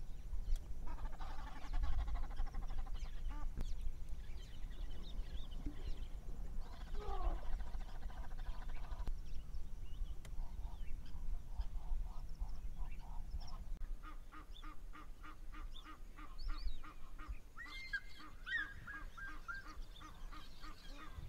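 Wild birds calling: scattered calls in the first half, then a rapid call repeated about six times a second, with louder, higher calls joining a few seconds later.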